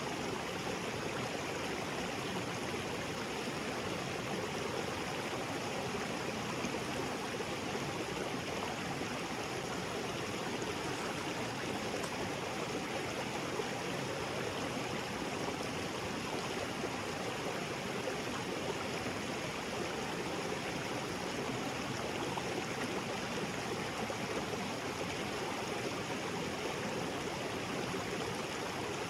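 Small waterfall splashing into a rocky jungle creek: a steady, even rush of falling and flowing water.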